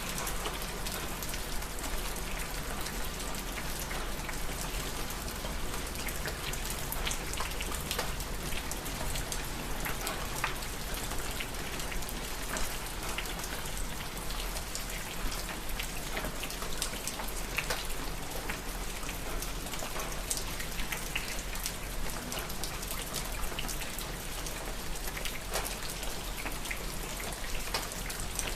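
Steady rain falling on a hard surface, with a constant hiss and many individual drops striking sharply and irregularly.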